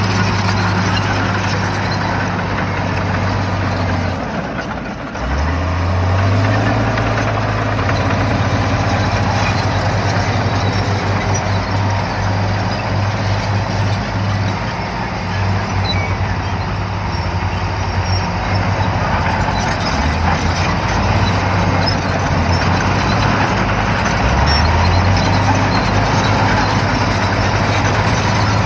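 Shantui bulldozer's diesel engine running hard, dipping briefly about four seconds in and then revving back up, with two more rises in engine speed later on.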